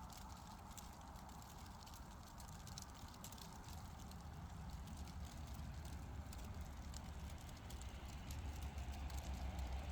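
Faint, irregular crackling and popping like a campfire, over a low rumble that grows louder from about halfway through.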